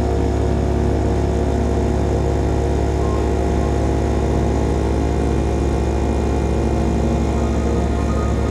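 CFMOTO Papio SS mini motorcycle's small single-cylinder engine running through a KO Lightning slip-on exhaust, held at a steady speed while cruising.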